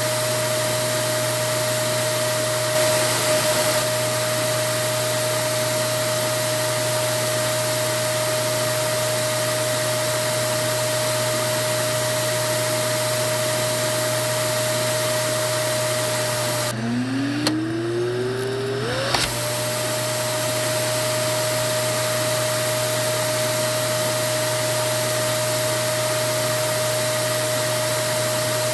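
Vacuum cleaner motor running steadily with a constant whine over a rushing hiss. About two-thirds of the way through, the motor briefly cuts out and spins back up, its whine rising in pitch until it settles again at its steady note.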